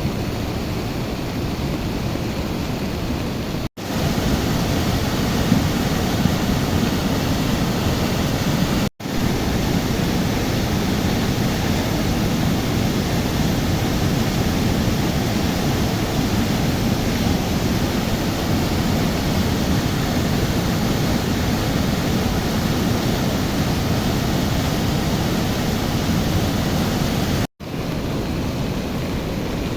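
Steady rushing of a river in flood, a continuous loud wash of water noise. It breaks off for a split second three times, where the footage is cut.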